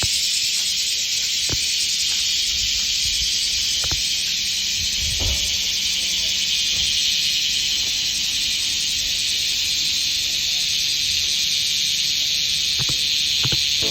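Chorus of cicadas: a loud, steady, high-pitched buzz, with a few faint knocks here and there.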